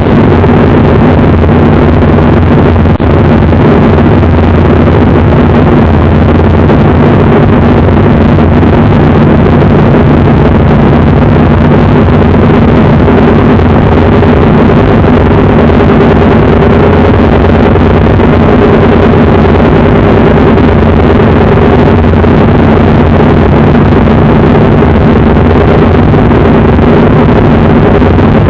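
Engine of a 1965 Mustang race car running at a steady, unchanging pitch. It is very loud and close to the microphone throughout.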